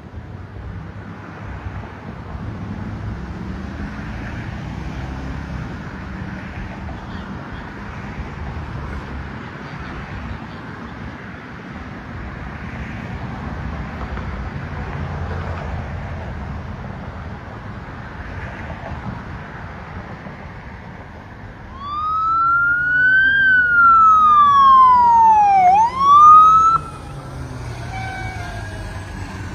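Steady rumble of vehicle engines and traffic. About three-quarters of the way through, an emergency vehicle's siren sounds loudly: it rises, sweeps down, rises again, then cuts off suddenly, and a fainter siren carries on afterwards.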